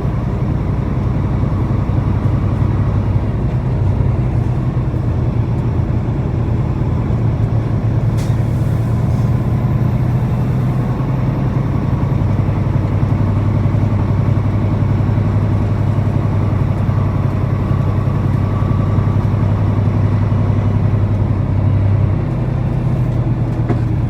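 Semi truck's turbo-diesel engine running, heard from inside the cab as the truck pulls away: a steady low drone whose note strengthens about halfway through and eases off near the end.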